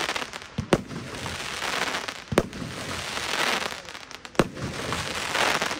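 Aerial fireworks bursting overhead: three sharp bangs about two seconds apart, with the dense crackle of glittering stars between them.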